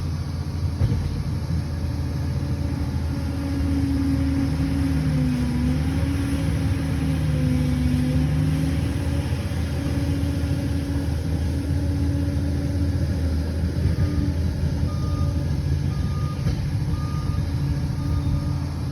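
Liebherr PR 746 crawler dozer's diesel engine running steadily, its pitch sagging for a few seconds partway through as it takes load. A reversing alarm beeps about once a second near the end.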